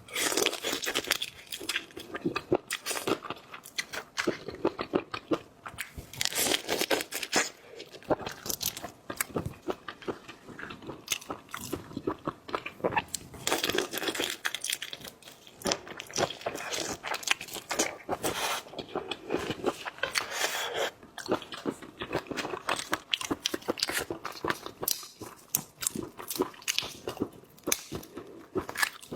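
Close-up crunching, biting and chewing of seafood, with dense irregular crackles and clicks that come in clusters.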